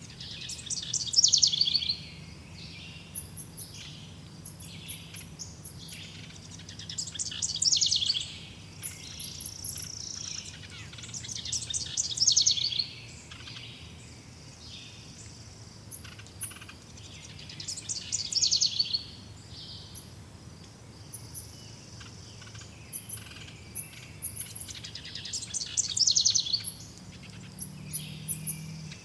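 Forest birdsong: a songbird repeats a loud, rapid, high song phrase five times, about every five to seven seconds, against a scatter of short, thin, very high chirps.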